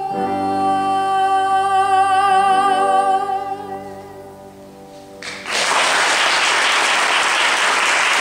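A woman's voice holds the last sung note of a musical-theatre song with vibrato, fading out about four seconds in. About a second later the audience starts applauding, and the applause continues steadily.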